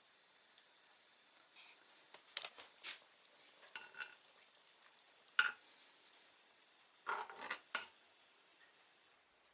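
A few light knocks and clinks of objects being handled, in short scattered clusters, the sharpest single knock about five seconds in.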